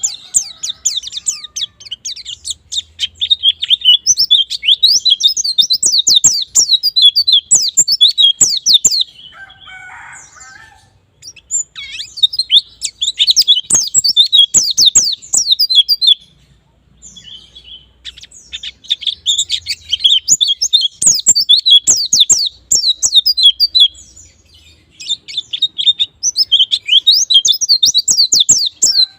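White-eye (pleci) singing a rapid, high twittering song in long bouts of several seconds, broken by a few short pauses.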